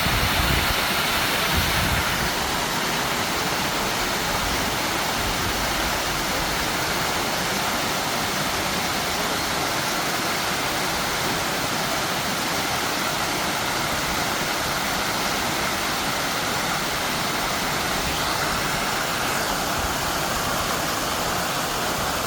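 Water pouring down an artificial waterfall: a steady, even rushing.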